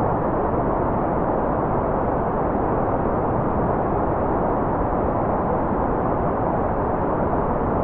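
Steady, unchanging white noise for focus and sleep, with a dull, muffled tone and little high hiss.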